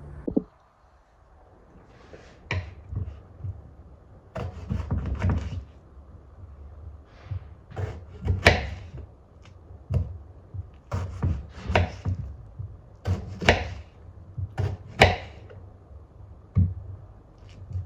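Irregular light knocks and taps of objects handled on a hard surface, some with a short scraping or rustling sound after them, spaced unevenly about a second apart.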